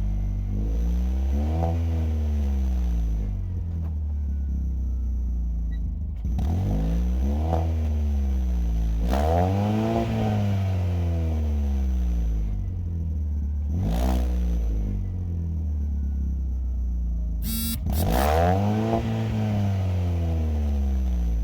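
Chevrolet Spin's exhaust, fitted with an aftermarket Omega muffler and Kansai resonator and downpipe, idling low and revved in about five short throttle blips that rise and fall back to idle. A few sharp clicks come between the revs, one near the middle and a rattling burst near the end.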